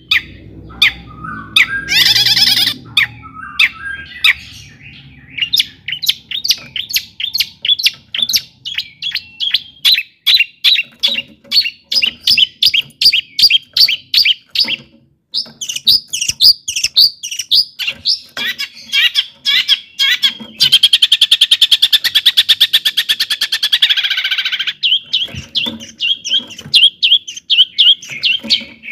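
Long-tailed shrike singing: long runs of quick, sharp repeated notes, broken near the end by a dense, fast rattling trill that lasts about four seconds before the sharp notes resume.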